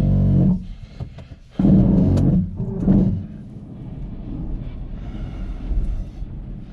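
A car engine being cranked by its starter motor in three short bursts, near the start, about two seconds in and briefly near three seconds, without catching. A steady low engine rumble runs underneath.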